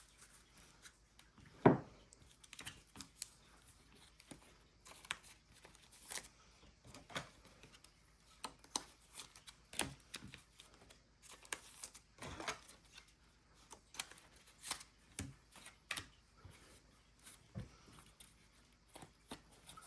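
Trading cards and their packs being handled: cards sliding and flicking against each other, with rustling and tearing, and a sharp snap just under two seconds in.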